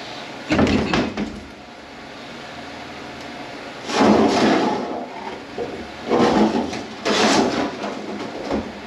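Four short bursts of clattering and scraping from tools and metal parts being handled during a transmission teardown.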